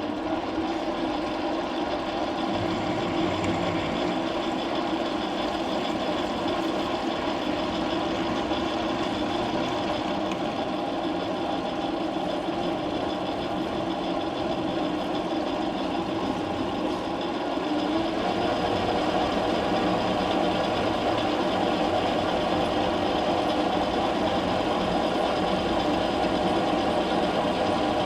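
Metal lathe running steadily while the workpiece is centre-drilled and drilled; the sound gets a little louder about two-thirds of the way through.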